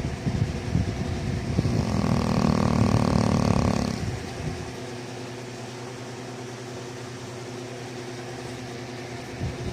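Dog snoring: a long snore building over the first seconds and loudest about two to four seconds in, followed by a quieter steady stretch until the next snore starts near the end.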